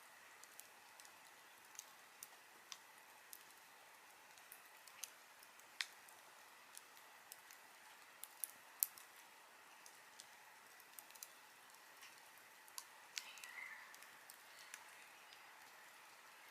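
Wood fire burning quietly: irregular sharp crackles and pops over a faint steady hiss, with a short hiss from the fire a little after the halfway point.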